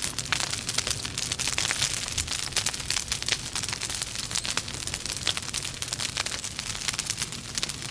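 Wood logs burning in a fireplace, crackling with many small irregular pops over a steady hiss.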